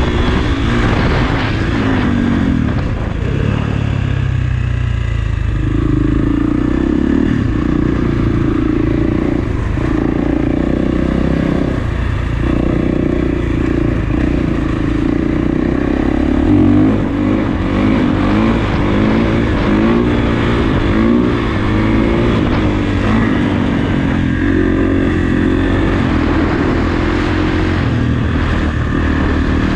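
Kawasaki KX450's single-cylinder four-stroke engine running under riding, its revs repeatedly rising and falling as the throttle is worked.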